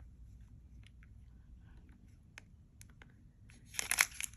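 Plastic jewelry packaging being handled: faint scattered clicks and rustles, then a short louder burst of crinkling near the end.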